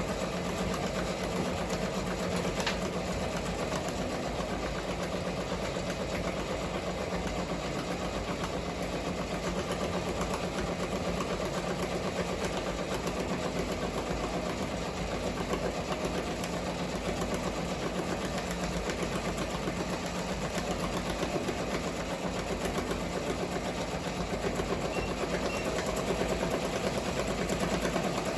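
Multi-needle commercial embroidery machine running steadily and stitching with a fast, even rhythm. It runs loud, with something smacking in its mechanism that does not stop it or spoil the stitching.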